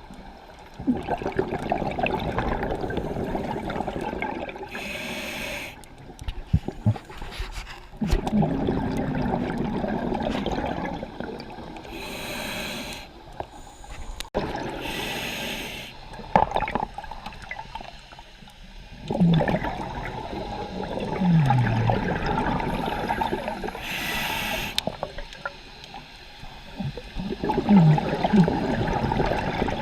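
Scuba diver breathing through a regulator underwater: about four short hissing inhales, each followed by a longer gurgling rush of exhaled bubbles.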